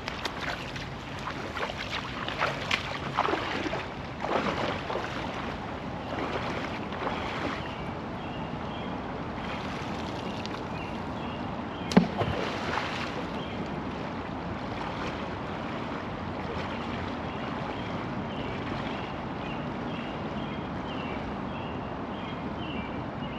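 River water running steadily, with irregular splashing through the first third as someone wades in the current. A single sharp knock sounds about halfway through.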